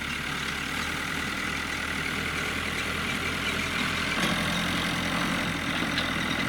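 A motor engine running steadily close by, with a low rumble. About four seconds in its note changes and a new low tone comes in.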